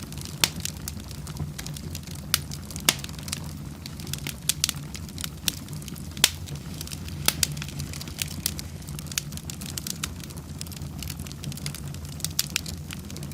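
Wood fire burning in a fireplace, crackling with irregular sharp pops of varying loudness over a steady low rumble.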